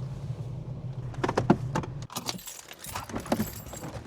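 A vehicle engine idles with a steady low hum and is switched off about two seconds in. Keys jangle and click through the second half.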